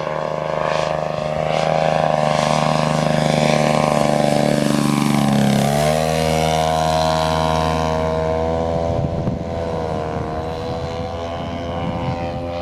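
Engine and propeller of a 1/3-scale radio-controlled Cessna 182 model plane running steadily in flight. It drops in pitch about five and a half seconds in, then runs on at the lower pitch.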